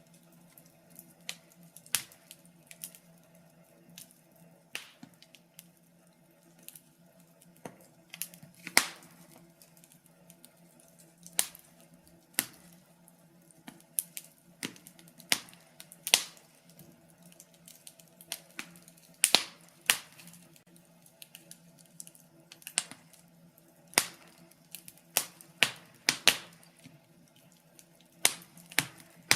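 Wood fire crackling in a fireplace: irregular sharp pops and snaps from the burning firewood, some much louder than others, over a faint steady low hum.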